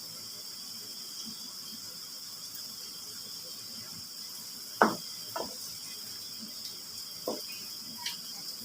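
Liver frying in a pan over high heat: a steady high-pitched hiss, with four sharp knocks of a utensil against the pan, the loudest about five seconds in.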